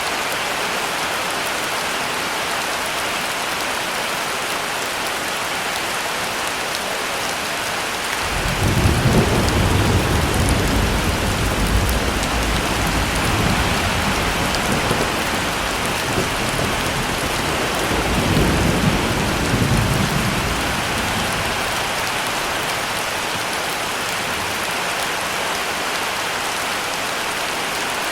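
Steady heavy rain falling, with a long roll of thunder that starts about a third of the way in, rumbles for over ten seconds with a second swell, then fades back into the rain.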